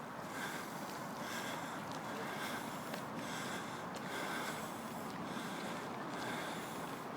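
Steady rushing noise of riding a bicycle in the rain: wind on the microphone and wet tyres on the path, with a faint soft pulse about once a second.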